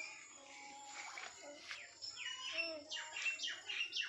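A bird singing a rapid run of short, sharply falling notes, about three a second, starting about two seconds in.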